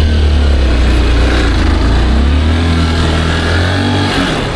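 Small motorcycle engine running under load as the bike is ridden, its pitch rising slightly partway through and easing off near the end, with wind noise behind it.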